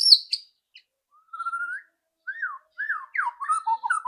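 White-rumped shama (murai batu) singing: a brief high chirping phrase at the start, then from about a second and a half in a run of clear, fluty whistled notes that glide up and down.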